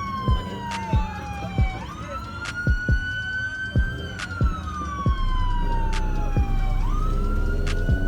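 A siren wailing in a repeating cycle, each cycle a quick rise followed by a slow fall in pitch lasting a couple of seconds. Under it runs a steady beat of sharp thumps, with a deeper bass coming in about five seconds in.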